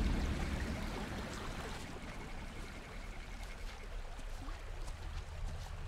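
River water flowing in a steady rush, under a deep low rumble that fades away over the first second or so.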